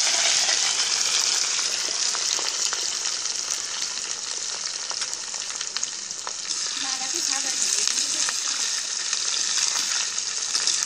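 Cut potatoes sizzling in hot oil in a kadai, crackling with small spatters, while a metal spatula stirs and scrapes among them. The sizzle is loudest at the start and eases a little after the middle.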